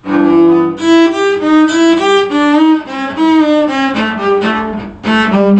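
A bowed string instrument playing a quick melodic phrase of many short notes over a held lower drone note, pausing briefly about five seconds in before carrying on.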